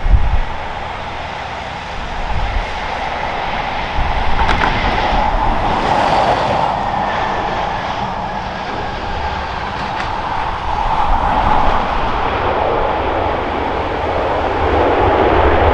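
Airbus A320-214's CFM56 jet engines, a steady rushing noise that swells about four seconds in and again near eleven seconds. Crosswind gusts thump on the microphone at the start and about four seconds in.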